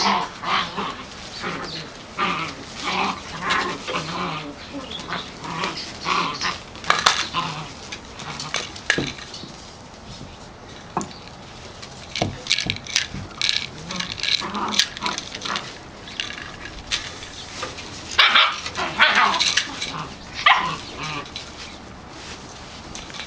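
Eight-week-old Portuguese Podengo Medio puppies yipping and whimpering in many short, high-pitched bursts, with a few sharp clicks among them.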